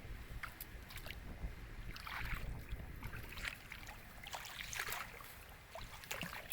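Water splashing and sloshing in irregular short bursts, with a few sharper clicks, over a low steady rumble.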